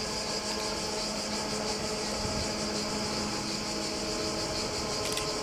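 A train's engine running, heard as a steady mechanical hum with several tones, under a constant high buzz.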